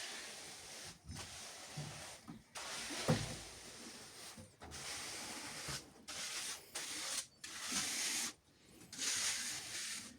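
A metal tool scraping and spreading wet sand-cement mortar over a floor, in repeated strokes of about a second each with short breaks between them.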